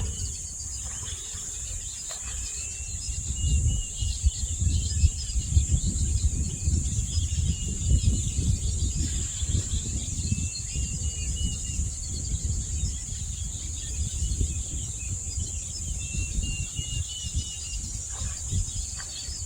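Outdoor natural ambience: a steady high-pitched insect drone, with short bird chirps recurring every few seconds, over a low rumble that is loudest in the middle.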